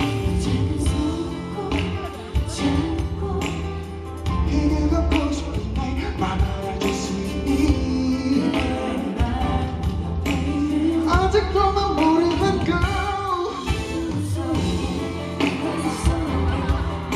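Live pop concert music from the audience: a singer over an amplified backing with a heavy, steady bass beat, picked up on a handheld camera's microphone.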